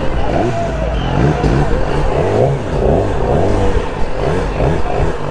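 Motorcycle engines running with a steady low rumble, mixed with people talking.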